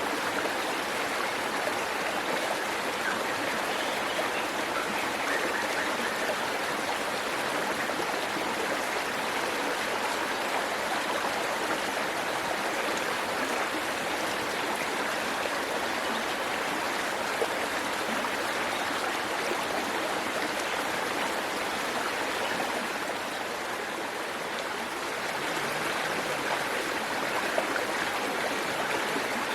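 Waterfall water rushing and splashing over rocks, a steady even rush of falling water.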